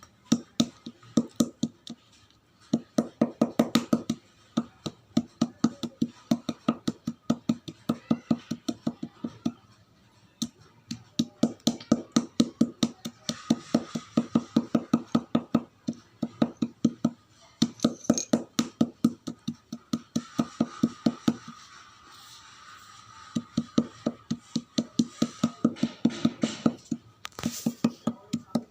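Chalk being crunched: runs of quick, crisp cracks several times a second, stopping briefly and starting again several times.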